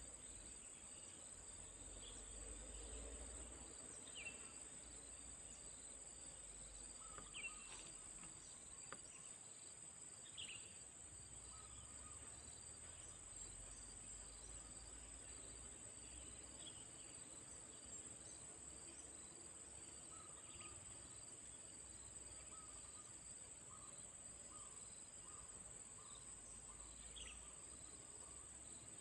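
Faint, steady high-pitched chirring of insects, with a few short, sharp high chirps every few seconds and a low rumble underneath.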